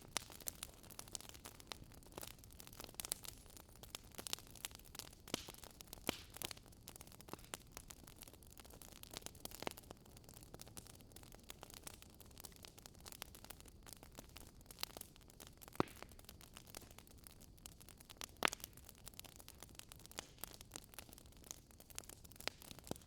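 Wood fire crackling quietly: irregular sharp pops and snaps over a soft steady hiss, with two louder pops a little past the middle and later on.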